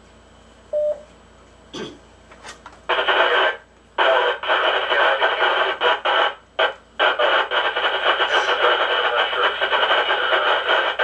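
Two-way radio receiver: a short beep about a second in, then hissing static on the channel from about three seconds on, cutting out briefly a few times.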